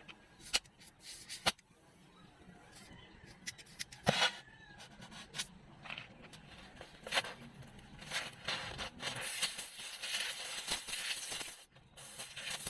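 Hand work on a rusted car floor: several sharp clicks and knocks, then a longer stretch of scraping and rustling from about two thirds of the way in.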